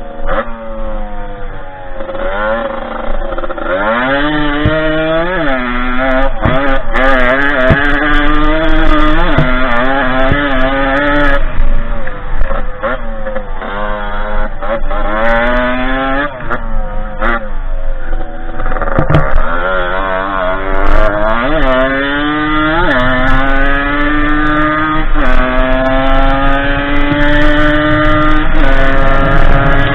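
Derbi 50cc two-stroke engine in a small dirt bike under way, its pitch climbing and falling back over and over as the throttle is worked through the ride.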